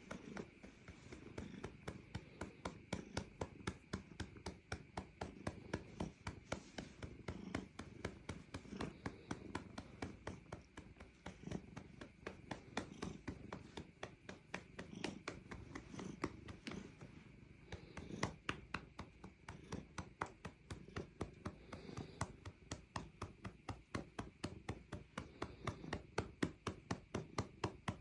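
A hand patting a cat's rump over and over, about three light pats a second, with the cat purring underneath.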